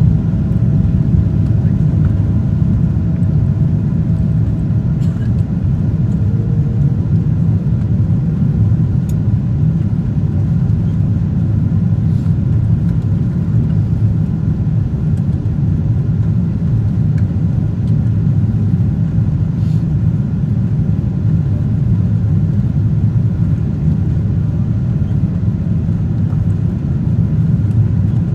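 Steady low rumble of engine and airflow noise inside the cabin of a Boeing 777-200ER in flight.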